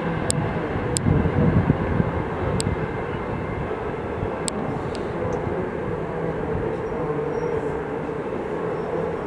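BART train running on elevated track: a steady rumble and hum, with a few sharp ticks in the first five seconds.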